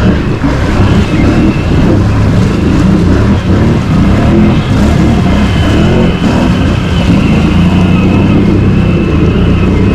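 Can-Am Outlander ATV's V-twin engine working hard through deep mud and water, its pitch rising and falling with the throttle.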